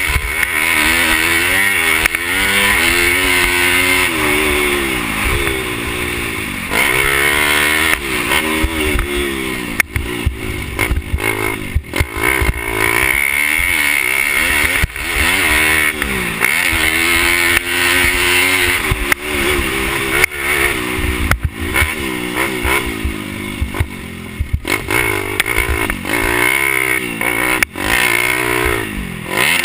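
Pit bike's single-cylinder four-stroke engine racing, revving up and falling back again and again as it accelerates out of corners and backs off into the next, with brief drops and knocks between.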